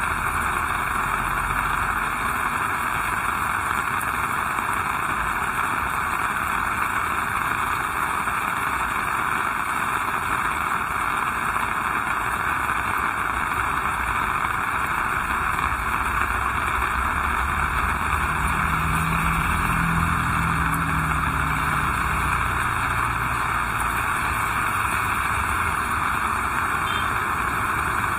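Heavy rain falling, a steady dense hiss. About two-thirds of the way through, a low hum rises and fades.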